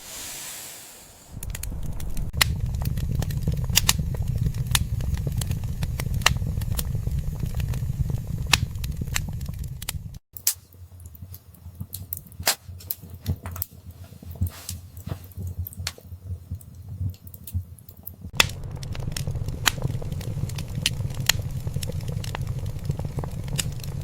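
Wood fire in a fireplace crackling, with frequent sharp pops over a low rumble. The rumble cuts out abruptly about ten seconds in, leaving only the pops, and comes back about eight seconds later.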